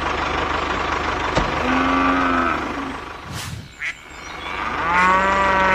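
A small motor running steadily with a fast, even low pulse, easing off briefly in the middle. Over it come two short pitched tones, each just under a second long, the second lower than the first.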